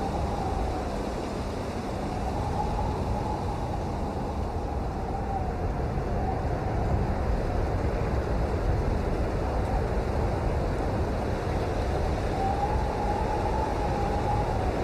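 Steady rain, a dense even hiss heaviest in the low rumble, with a faint high wavering tone that slowly rises and falls near the start and again near the end.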